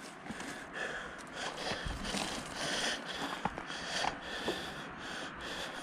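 A person breathing hard in short, irregular puffs, with a few faint clicks.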